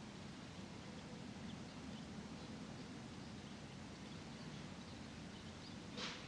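Suburban park ambience: a steady low background rumble with faint, short bird chirps scattered through it. A brief, louder rasping burst comes about six seconds in.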